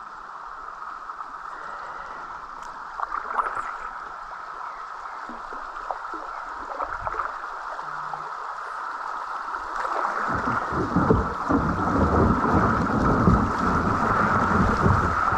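Rushing river water around a kayak, a steady hiss of flowing water. About ten seconds in it gets much louder, with a heavy, irregular rumble and splashing as the kayak runs through faster water.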